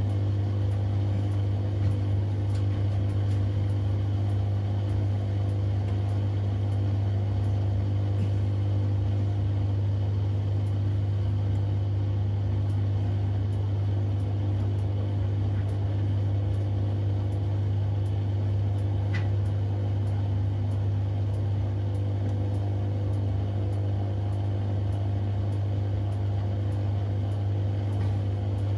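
Siemens Extraklasse XLs 140 A washing machine running mid-programme, a steady low hum with no change in speed, and one faint tick about two-thirds of the way through.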